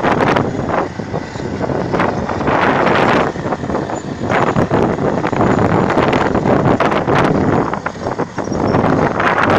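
Wind buffeting the microphone hard over the noise of a vehicle, loud and gusting throughout.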